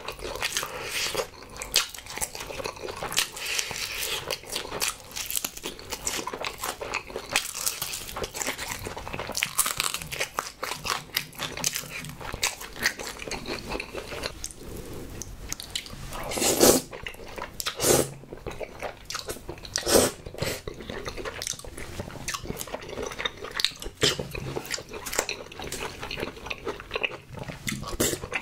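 Close-miked chewing and crunching of honey fried chicken drumstick, a dense run of short crisp crackles with a few louder mouth sounds past the middle.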